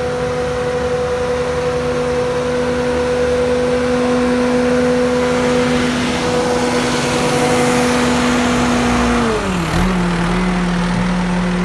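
Bobcat T650 skid steer's Kubota 3.3L diesel engine running at a steady raised speed, then throttled down about nine seconds in and settling at a lower, steady idle.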